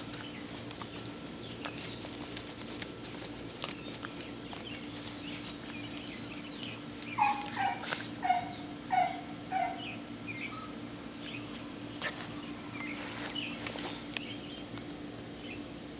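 A run of about five short animal calls, evenly spaced about half a second apart around the middle, with a few fainter higher calls a little later, over a steady low hum and scattered clicks.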